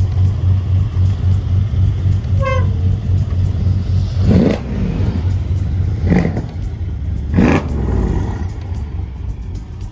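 Car engines revving in three short bursts, about four, six and seven and a half seconds in, over background music with a steady bass.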